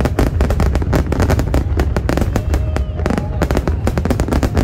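Fireworks display in full barrage: many aerial shells bursting and crackling in rapid succession over a continuous low rumble.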